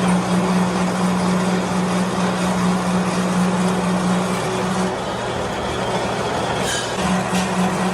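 Steady machinery running loudly with a strong low hum; the hum drops away for a couple of seconds past the middle and returns, with a couple of brief sharp clicks near the end.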